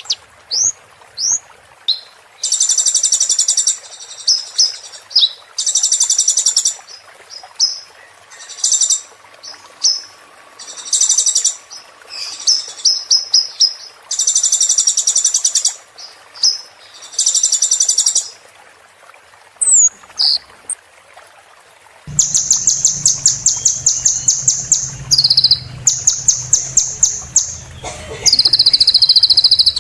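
Sunbird song: bursts of rapid, high trills about a second long, broken by short pauses and quick single chirps. From about 22 s in, the trills come faster and closer together over a low background hum.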